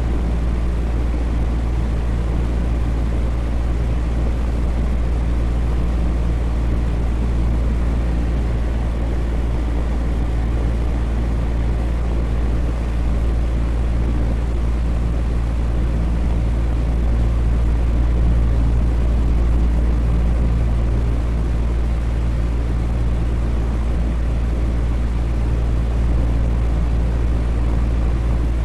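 Electric fan running steadily: an even whooshing rush of moving air, heaviest at the low end, with a faint motor hum under it.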